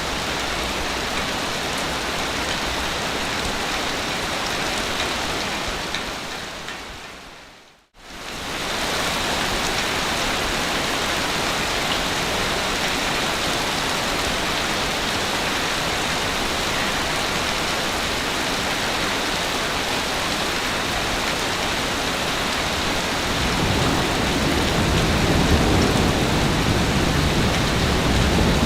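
Steady, rushing water noise with no surges. It fades briefly to silence about eight seconds in, then returns at full strength. Near the end a low rumble builds underneath.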